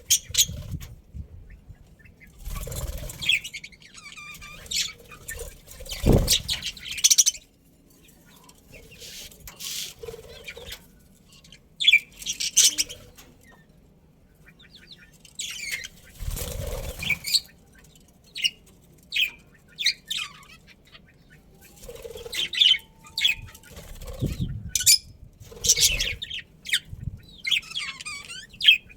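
Budgerigars chirping on and off, with wings flapping in short spells every few seconds.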